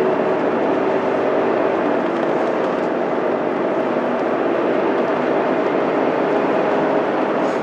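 Mitsubishi Fuso Aero Star city bus under way, heard from inside: its 12.9-litre 6M70 diesel engine runs steadily with road noise.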